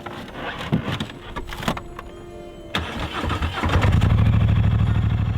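Scattered knocks and clicks, then a vehicle engine starts about three seconds in and keeps running with a steady, fast low pulse.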